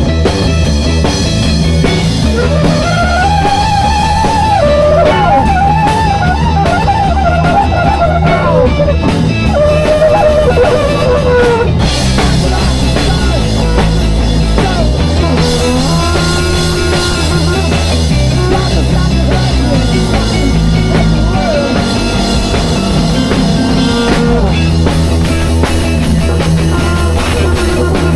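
Live improvised rock jam with drum kit, a bass line and guitar, played loud and steady. A lead line bends up and down in pitch through the first half.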